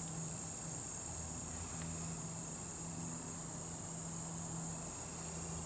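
Insects trilling steadily at a high pitch, with a faint low hum underneath.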